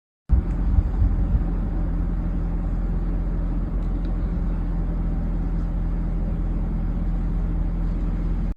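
A steady low rumble that starts abruptly, with a few louder knocks in its first second, and cuts off suddenly.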